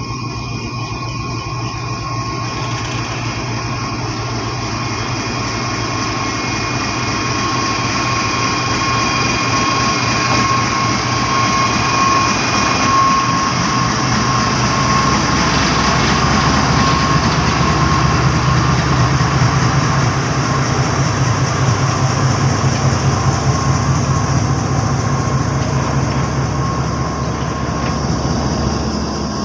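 GEU-40 diesel-electric locomotive pulling a passenger train away, its engine running under load with a steady whine that grows louder as it passes close by. After the locomotive, the coaches roll past with a rhythmic rumble of wheels on the rails.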